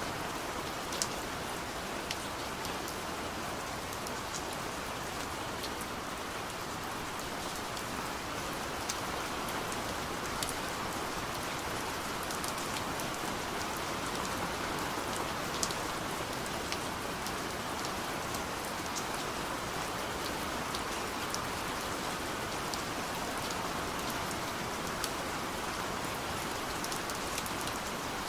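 Steady gentle rain falling on a window, an even hiss with scattered sharp ticks of individual drops striking the glass.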